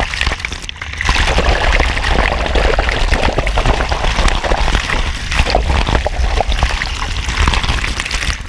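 Waterfall water pouring and splashing close to the microphone: a loud, dense rushing with crackling splashes and a deep rumble underneath, easing briefly about half a second in before rising again.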